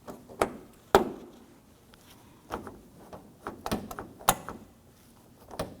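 Sharp clicks and knocks of a Ford Focus exterior door handle assembly and its reinforcement bracket being pressed into place in the front door and worked, about half a dozen in all, the loudest about a second in.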